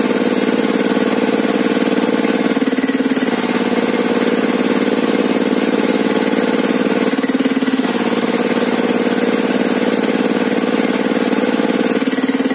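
Engine-driven sawmill table saw running steadily, its tone changing briefly about every four to five seconds.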